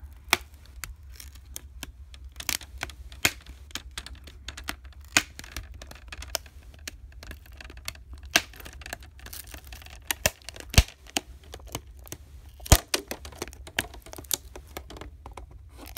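Irregular clicks, taps and short scrapes of fingers working a laptop's plastic screen bezel and peeling adhesive tape off the display, with two sharper clicks about two seconds apart in the second half.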